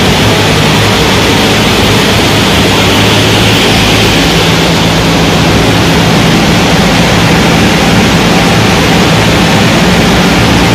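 Steady loud rushing of air with the low hum of the 1JZ-GTE straight-six idling at about 1,000 rpm underneath, the engine at rest after a dyno pull.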